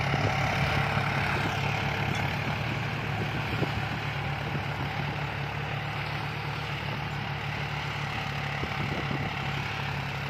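John Deere farm tractors' diesel engines running steadily while pulling disc plows through a field.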